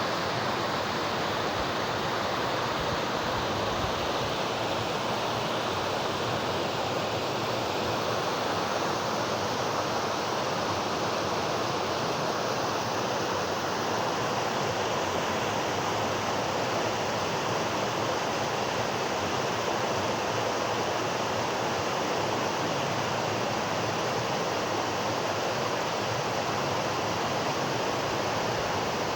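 Mountain river rapid: fast water rushing over rocks in a steady, even roar.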